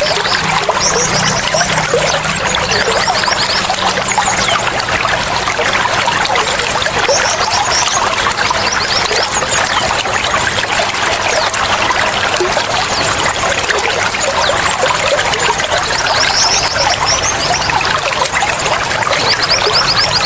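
Running water trickling and splashing steadily, like a small stream or fountain flowing.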